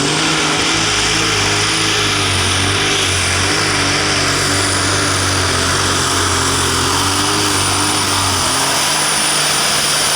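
Light super stock pulling tractor's engine running hard at full power under load on the pull, with its pitch wavering slightly and a steady high whine over it.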